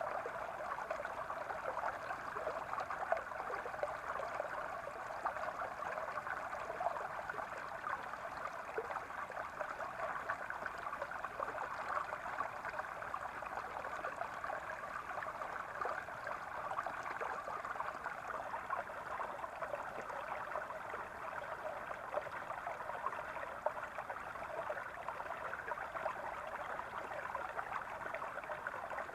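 Small brook babbling and gurgling steadily over stones.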